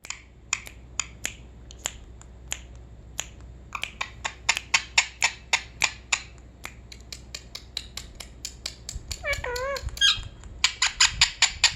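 A string of sharp clicks, spaced out at first and coming several a second in bursts in the middle and near the end, with a short wavering pitched call about nine seconds in.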